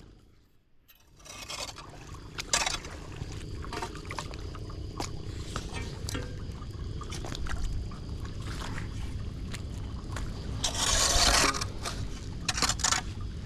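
Floodwater draining into a clogged storm drain, a steady low rush of water broken by irregular scrapes and splashes as debris is cleared from the grate. A louder splash comes near the end.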